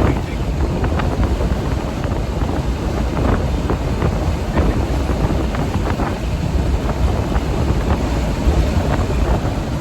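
Wind rushing and buffeting over the microphone in the open cockpit of a moving Polaris Slingshot, over the steady road and engine noise of the roadster driving at highway speed.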